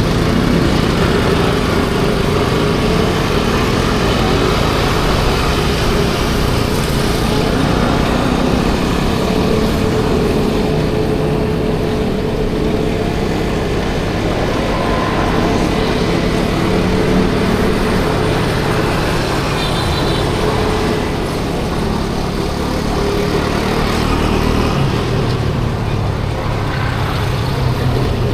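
50cc scooter running steadily at road speed in traffic: a constant engine hum under heavy road and traffic noise.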